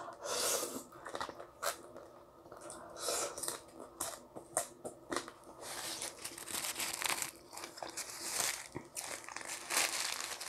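Close-miked chewing of a mouthful of food: irregular wet mouth clicks and crunchy smacks, some louder than others, with no steady rhythm.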